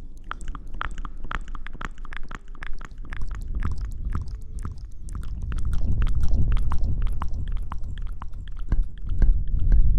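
Close-miked ASMR rustling and rubbing: dense, irregular crackles with a low rumble that grows louder about halfway through.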